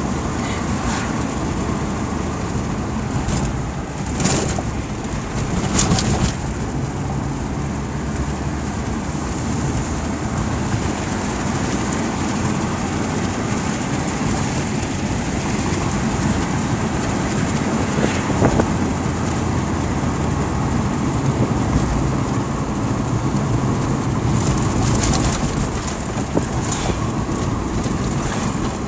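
Steady road and engine noise of a moving car, with a few short knocks scattered through it.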